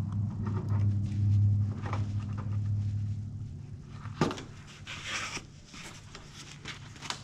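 Handling and metal clicks as the cap on the mini split indoor unit's small refrigerant line is unscrewed, with a sharp knock about four seconds in. Short bursts of hiss follow as the factory nitrogen holding charge starts to escape, the sign that the coil has no leak. A steady low hum fades out during the first half.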